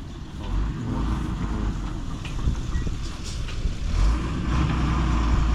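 Sand truck's engine running with a steady low rumble.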